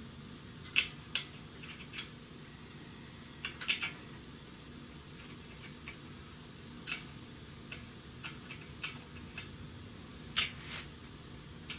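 Lug nuts being handled and started onto wheel studs by hand: scattered light metallic clicks and clinks, a dozen or so, at uneven intervals.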